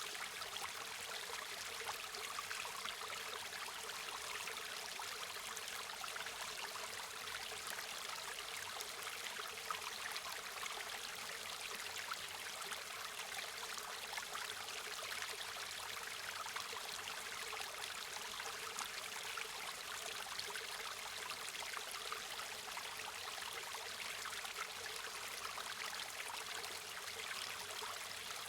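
A river or stream flowing steadily, an even rush of water with fine splashing detail.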